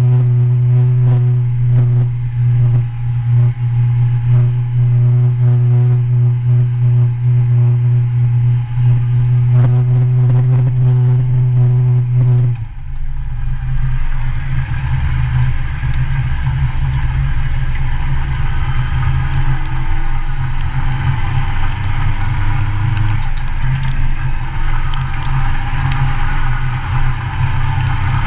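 Motorcycle engine running at a steady, even note, then about halfway through the sound changes abruptly to a noisier rush with the engine note climbing in pitch as the bike rides on.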